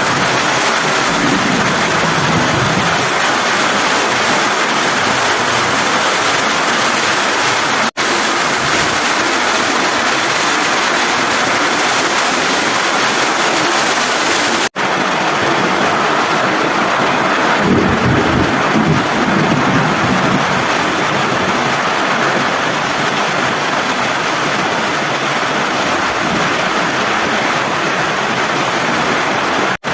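Heavy rain pouring steadily in strong wind, with low rumbling surges near the start and about eighteen seconds in. The sound cuts out for an instant twice partway through.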